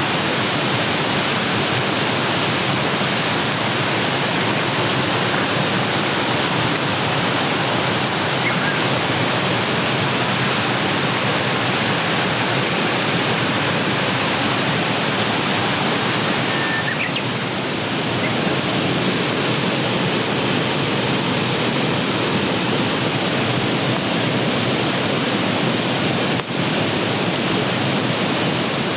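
Steady rushing of flowing water, like a stream running high, as an even noise throughout.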